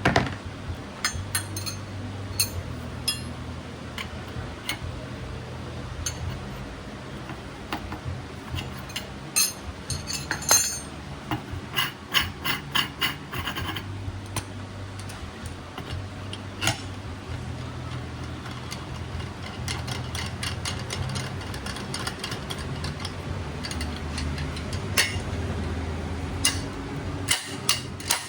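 Hand tools working on metal scooter parts: irregular clicks, taps and scraping, busiest in the middle and near the end, over a steady low hum.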